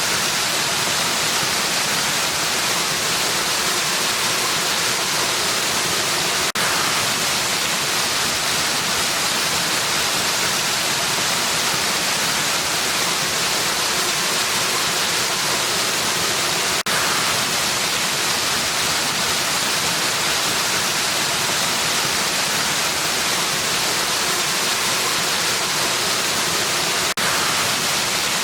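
Steady rushing of a waterfall: an even, unchanging hiss of falling water, with a faint brief break about every ten seconds.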